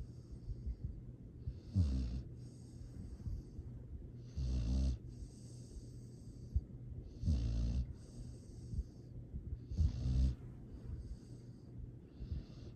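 Sleeping dog snoring in a slow, even rhythm: four snores about one every two and a half to three seconds, with a breathy hiss between them.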